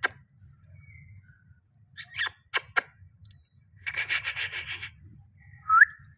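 Pet parrot making small sounds: a few sharp clicks about two seconds in, a raspy scratching noise lasting about a second near the middle, and a short rising chirp near the end, the loudest sound.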